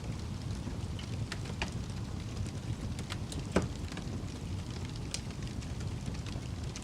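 Fire crackling: a steady low rumble of flames with scattered pops and snaps, the loudest about three and a half seconds in.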